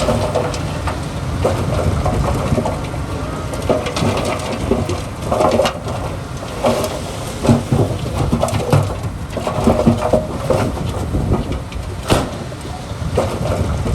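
Heavy diesel earthmoving machinery working: a steady deep engine rumble with irregular clanks and knocks throughout.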